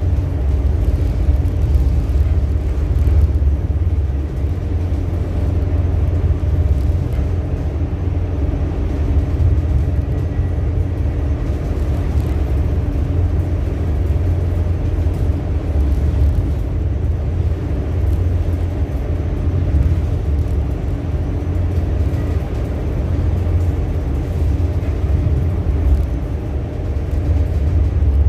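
Ship's engine running with a steady low rumble and a constant hum.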